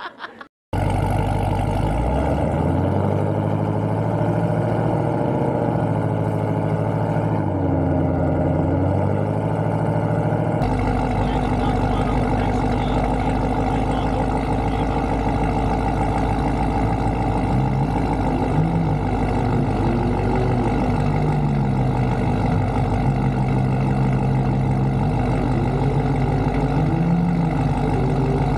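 Drag-racing car engine idling loud and steady, with a few brief revs that rise and fall in pitch. The sound changes abruptly about ten seconds in.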